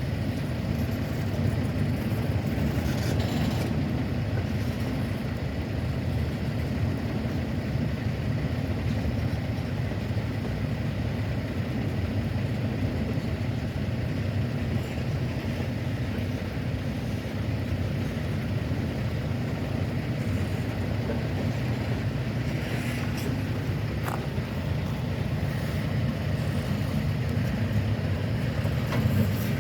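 Norfolk Southern diesel locomotives idling with the train stopped: a steady low rumble.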